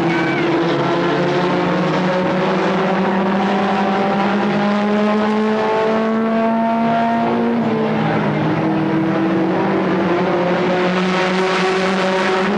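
Several stock car engines running hard together in a race. Their pitches overlap and slowly rise and fall as the cars speed up and back off.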